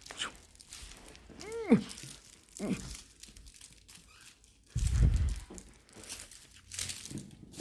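Small dog mouthing and shaking a plush penguin toy: crinkling, rustling and scratching. A short squeak that rises and falls comes about one and a half seconds in, and a low thump around five seconds.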